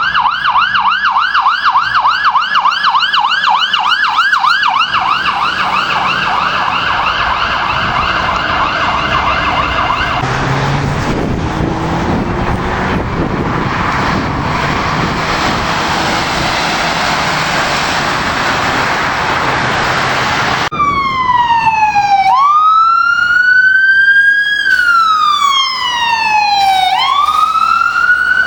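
Emergency vehicle sirens: first a fast yelp cycling about four times a second, then for about ten seconds the noise of a vehicle's engine and road, then a wail siren sweeping slowly up and down over the last several seconds.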